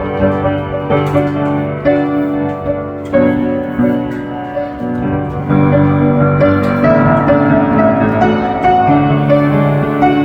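Piano music, with chords and notes sounding anew about once a second.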